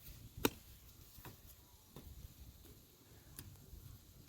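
A jembe (hand hoe) striking stony soil: a few separate, irregular knocks, the loudest about half a second in.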